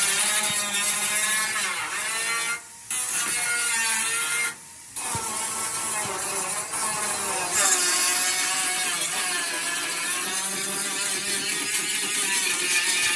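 A power tool working on metal, a steady grinding noise with a whine whose pitch wavers up and down. It breaks off briefly twice near the start.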